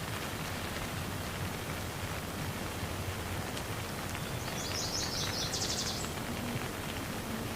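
Steady rain falling, an even hiss. About four and a half seconds in, a brief high-pitched bird trill sounds over the rain for a second and a half.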